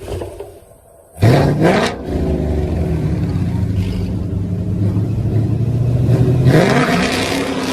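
A car engine revving hard under acceleration. The pitch rises sharply about a second in, holds at a steady high drone, then climbs again near the end.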